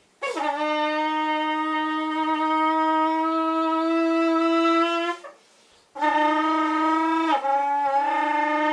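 Trumpet played to imitate a motorbike. A long held note that swoops down in pitch as it starts, a short break, then a second held note that dips and steps in pitch.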